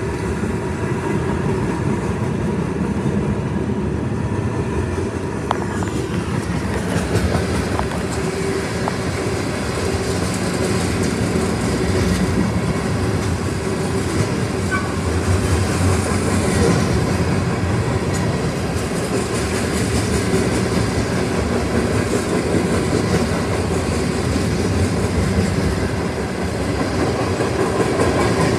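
Freight train cars rolling through a grade crossing, a steady rumble and clatter of wheels on the rails. No crossing bell sounds: the crossing's Safetran Type 3 electronic bell is dead.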